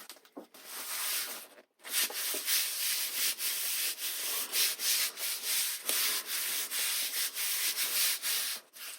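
Quick, repeated rubbing strokes of a hand over board, pressing a freshly hot-glued piece down, with a brief pause just before two seconds in.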